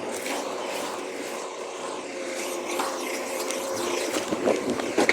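A motor vehicle running steadily: an even engine hum with road or running noise, with no sudden events.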